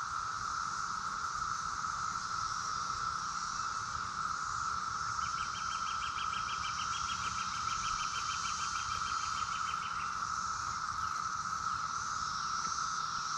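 Chorus of Brood X periodical cicadas: a loud, steady, unbroken drone from many insects at once. From about five to ten seconds in, a separate higher, rapid pulsing call repeats about four or five times a second over the drone.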